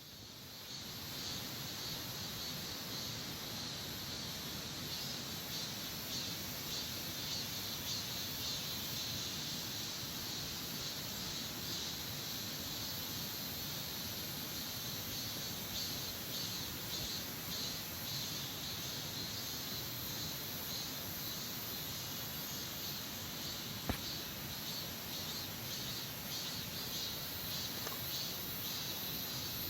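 Steady rush of a mountain stream under a chorus of insects chirring in quick, even pulses, with a single sharp click late on.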